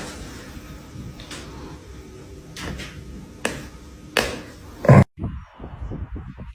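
Several soft knocks over a low background, with one loud thump about five seconds in.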